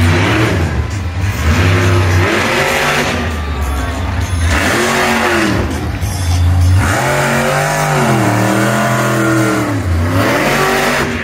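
Monster truck engine revving hard and easing off again and again, its pitch rising and falling every second or two.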